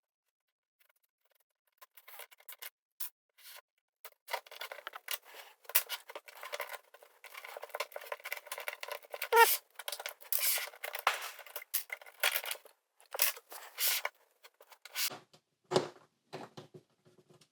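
LEGO plastic bricks and plates clicking and scraping as they are pried apart with a brick separator and handled, in a quick irregular run of small clicks. A short squeak about halfway through is the loudest sound, and a few duller knocks come near the end.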